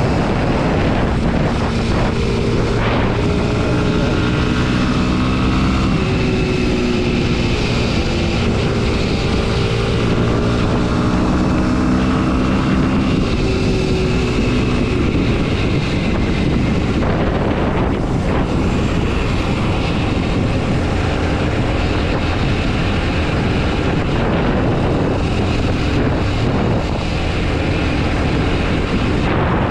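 Kawasaki KLX 230 SM's single-cylinder four-stroke engine running while ridden, its pitch rising and falling with throttle and gear changes, most clearly in the first half. Wind rushes over the microphone throughout.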